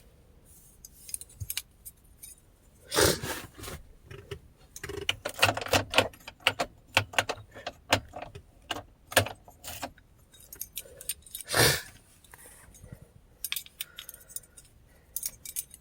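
Keys jangling and clinking, with scattered sharp clicks and two louder knocks, one a few seconds in and one past the middle.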